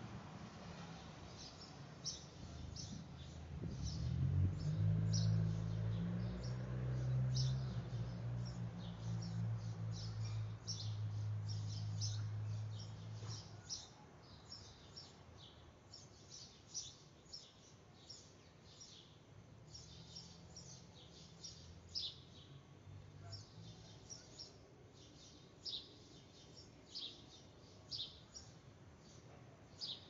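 Small birds chirping outdoors: many short, high chirps repeated throughout. A low steady hum rises from about four seconds in, is the loudest sound for a while, and cuts off at about thirteen seconds.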